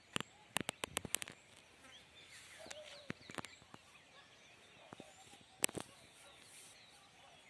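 Forest ambience with faint, scattered bird chirps. A quick run of sharp clicks and crackles comes in the first second or so, and a single loud click a little before six seconds in.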